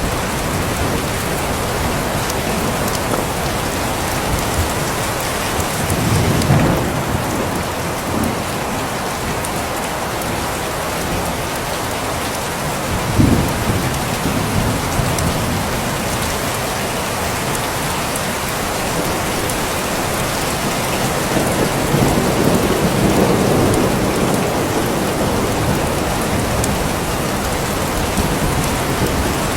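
Steady heavy rain hissing, with rolls of thunder rumbling low several times: a short one about six seconds in, a sharper one near the middle, and a longer rumble a little past two-thirds of the way through.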